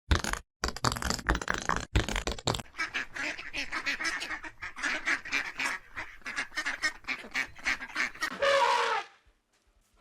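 Flock of flamingos calling: a dense, rapid stream of short honks, then one longer call a little before the end.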